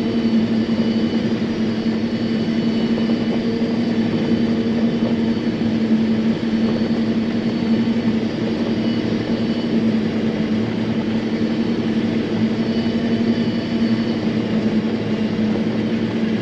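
John Deere self-propelled forage harvester running under load while chopping corn, heard from inside its cab: a steady machine hum with one strong constant tone that holds unchanged throughout.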